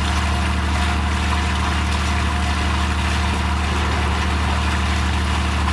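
Marine diesel machinery in a boat's engine room running steadily, a low even drone with no change in speed.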